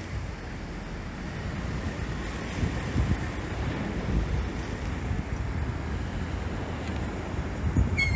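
Wind gusting on the microphone at the seashore, with the wash of surf beneath it.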